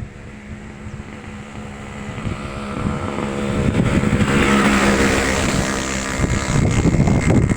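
A motor vehicle's engine drawing near and passing close, growing louder to a peak about halfway through and then fading. Near the end, strong wind buffets the microphone with a low rumble.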